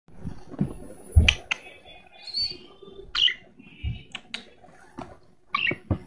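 Small cage birds chirping, with several short calls about two, three and five and a half seconds in. A few low bumps come from the camera being handled.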